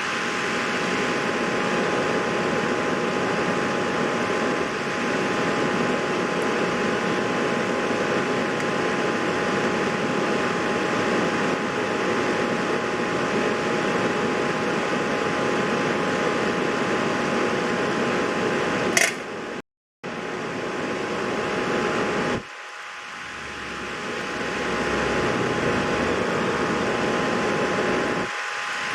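Steady whirring hum of a fan with two faint steady tones through it, briefly broken by a click and a short cutout about two-thirds of the way through.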